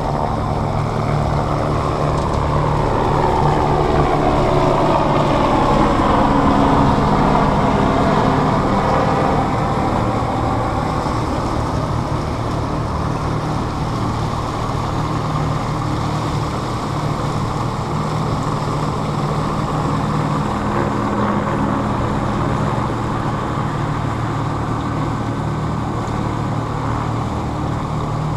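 Motorboat engine running with a steady drone. About two seconds in, a second higher whine swells and slides down in pitch over several seconds, then fades back into the drone.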